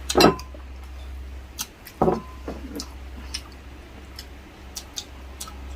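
A person chewing with wet, squishy smacking and clicking mouth sounds, with two louder smacks about two seconds apart, over a steady low hum.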